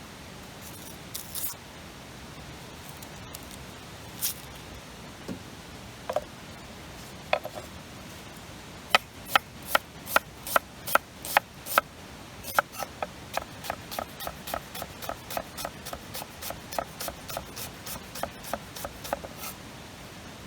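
Knife chopping food on a cutting board: a few scattered taps, then steady chops from about nine seconds in, about two and a half a second. From about twelve seconds in they turn lighter and quicker, about three a second.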